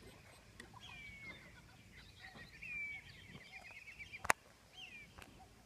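Birds calling: a few thin, descending whistled notes and a quick run of rapidly repeated notes, with one sharp click about four seconds in.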